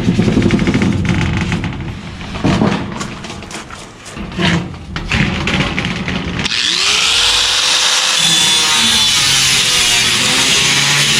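Irregular power-tool work with clicks and short noisy bursts. About six seconds in, it gives way to loud rock music with electric guitar.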